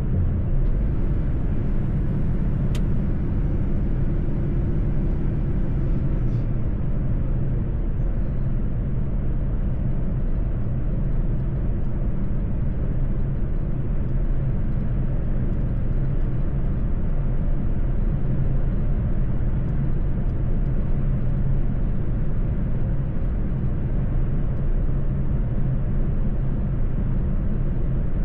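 Mercedes-Benz truck driving at a steady pace: a steady low engine drone with road noise, and a single sharp click about three seconds in.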